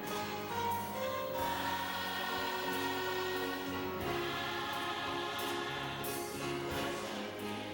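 Gospel song with a choir holding long notes over instrumental accompaniment, with a few cymbal-like hits.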